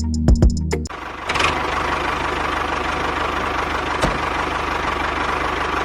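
Background music with drum hits for about the first second, then a small motor running steadily with a fast, even whirr, likely driving the DIY mini chaff cutter.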